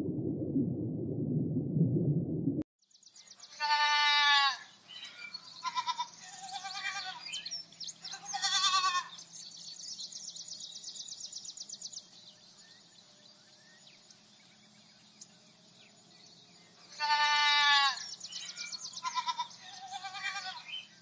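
A low rumble cuts off abruptly about two and a half seconds in. Then goats bleat again and again: loud, high calls in ones and short clusters, with a long gap in the middle.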